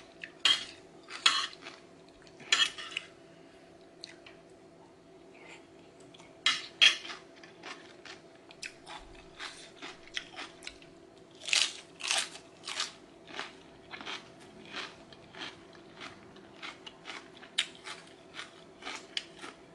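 Close-up chewing of crunchy cucumber salad: crisp crunches in irregular clusters, loudest about a second in, near seven seconds and around twelve seconds, over a faint steady hum.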